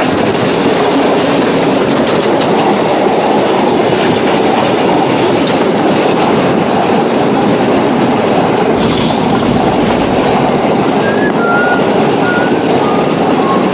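Steady running noise of a moving train, its wheels clattering on the rails, with a few brief high squeaks near the end.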